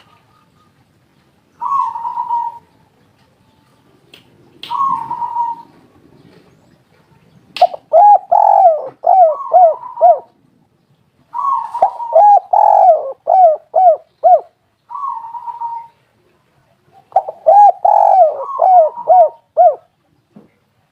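Spotted dove cooing: about six phrases with pauses between them. The first two are short coos; the later ones are longer runs of quick, arched notes.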